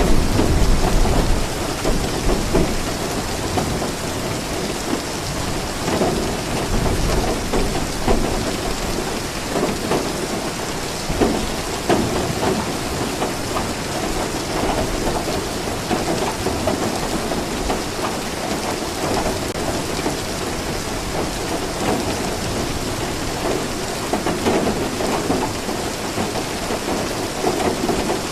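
Steady rain, with low rolling thunder that swells in the first couple of seconds and again a few seconds later.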